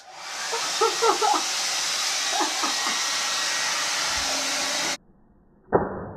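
Handheld blow dryer loaded with foot powder, switched on and blowing steadily for about five seconds, then cut off suddenly. A voice cries out briefly over it. Near the end a muffled rushing noise starts.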